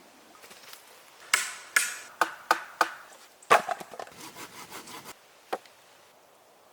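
Wood being struck: about six sharp, ringing knocks a few tenths of a second apart, then lighter wooden clatter and one last knock.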